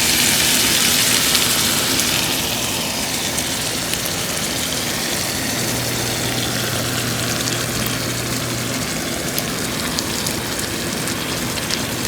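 Liquid sizzling and bubbling in a hot skillet of sausage, chicken and vegetables just after seafood-boil juices are poured in, a steady hiss with faint crackles that is loudest at first and settles slightly after a couple of seconds. A low steady hum runs underneath.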